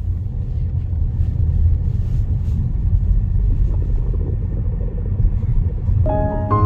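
Steady low rumble of a moving car heard from inside the cabin, road and engine noise. Music with sustained notes comes in near the end.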